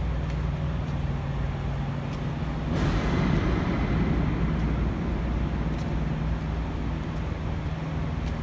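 A vehicle engine running steadily with a low hum; about three seconds in it grows louder and noisier and stays that way.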